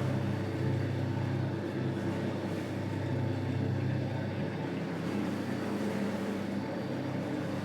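A steady low motor hum with a rushing noise over it, from running cleaning machinery.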